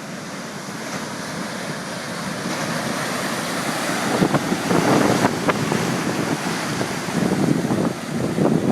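Hurricane-driven surf breaking heavily, with strong wind buffeting the microphone. The rush of water grows louder, swelling about halfway through and again near the end.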